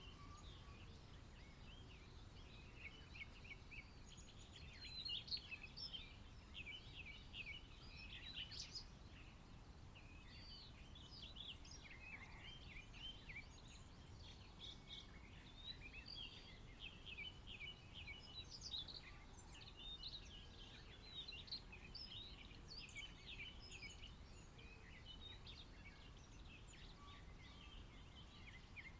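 Small birds singing, a dense stream of short, high chirps and trills, fairly faint, over a low steady background rumble.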